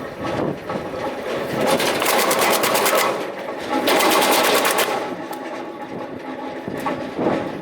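REMET RPE 200 22 kW electric drum wood chipper chipping sawmill offcuts: rapid, even cracking as the drum knives bite the wood, loudest in two stretches about two and four seconds in, over the steady hum of the running machine.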